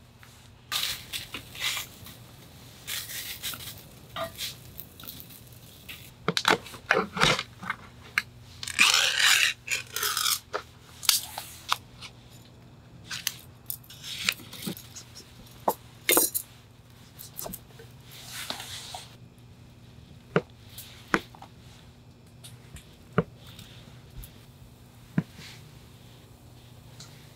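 Cooking handling: a utensil scraping and clicking in a frying pan, with bursts of food packaging tearing and crinkling in the first half, then sparser single clicks.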